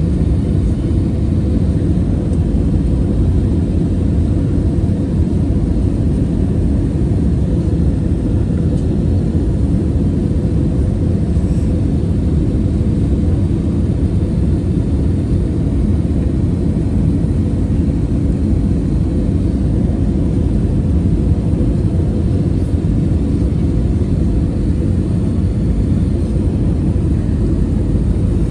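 Airliner cabin noise in flight: a steady low rumble of engines and airflow, with a faint steady hum on top.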